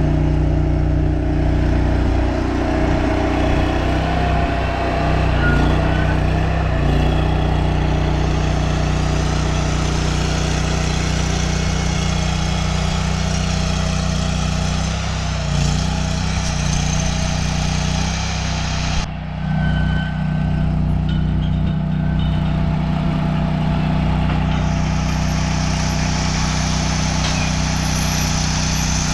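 An engine running steadily, a constant low hum that breaks off briefly about 19 seconds in and then resumes.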